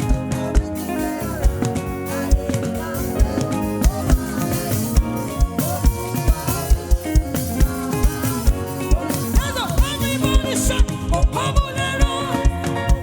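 Live gospel praise band playing, with a steady kick-drum beat under melodic instrumental lines.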